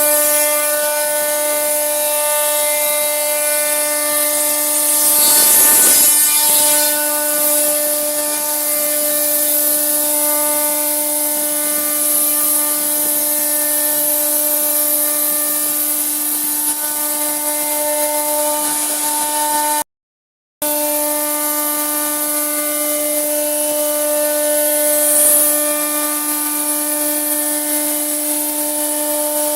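Electric woodworking power tool running with a steady whine while its cutter works through wood, swelling louder a few seconds in and again near the end. The sound drops out for under a second about twenty seconds in, then resumes.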